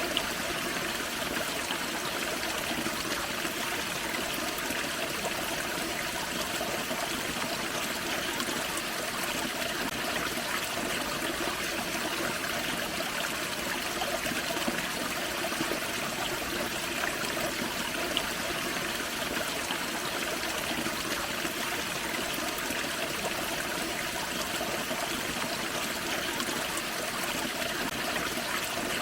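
Small forest waterfall and creek: water splashing and trickling over rocks in a steady, unbroken rush.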